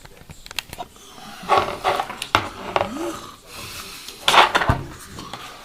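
Objects being handled: scattered sharp clicks and two short rustling scrapes, the loudest about four seconds in.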